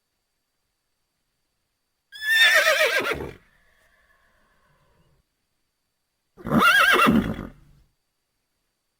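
A horse whinnying twice, each whinny about a second long with a quavering pitch, separated by a few seconds of silence.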